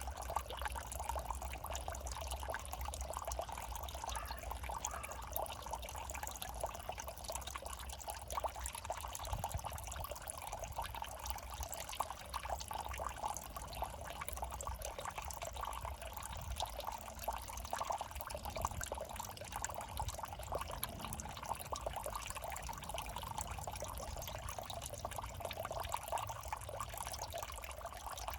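Water in a small urban drainage ditch trickling and burbling steadily over a low, constant rumble.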